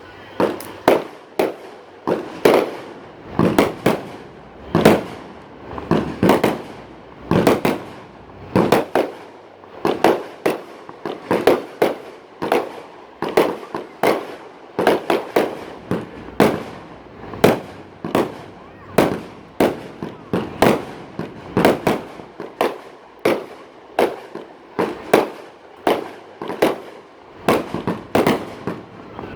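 Aerial fireworks going off in a rapid, continuous string of sharp bangs, about two a second, each with a short echoing tail.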